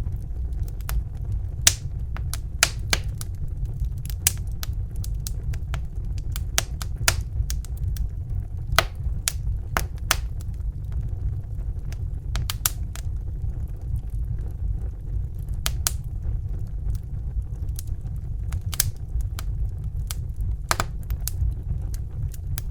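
Crackling fire: irregular sharp pops and snaps, a few a second, over a steady low rumble.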